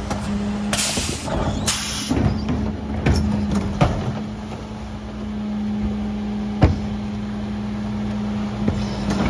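Mercedes Econic refuse truck running with a steady hum, with two short hisses of air about a second in and a few sharp knocks and clunks.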